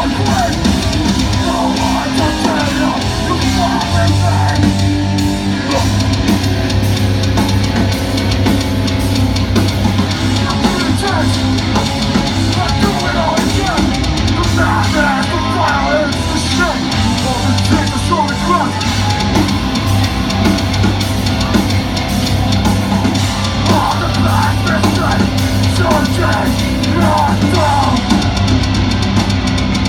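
Metal band playing live: a drum kit and distorted electric guitars, loud and unbroken.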